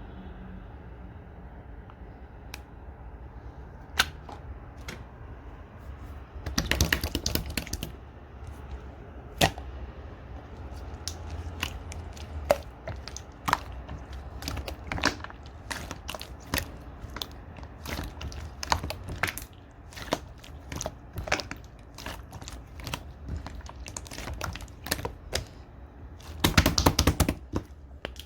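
Red glitter slime being pressed and worked by hand, giving sharp wet clicks and air-bubble pops one after another, with two short spells of dense crackling, one early on and one near the end.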